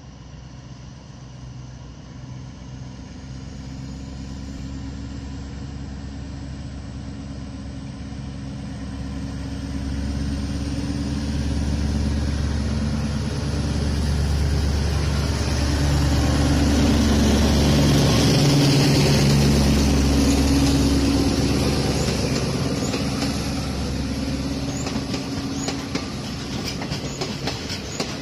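Diesel locomotive hauling a passenger train approaches and passes. Its engine drone grows steadily louder to a peak a little past halfway, then eases as the carriages roll by, with wheels clicking over the rail joints near the end.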